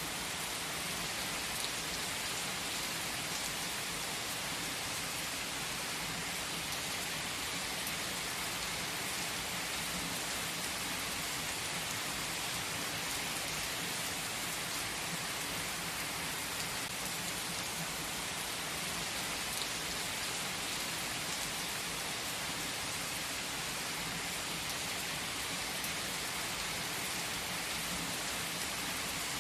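Steady, even rain-like hiss of a relaxation ambience track, with a few faint ticks and no music.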